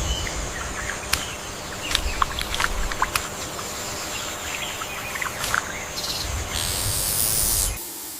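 Rainforest ambience: a steady hiss of insects with many short bird chirps scattered through it. Near the end a louder, high-pitched hiss rises for about a second and cuts off suddenly.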